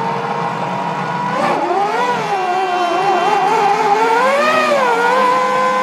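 A 1998 Formula One car's 3-litre V10 engine at racing revs, its pitch rising, wavering and swelling up and down through throttle and gear changes. A steadier engine note holds underneath.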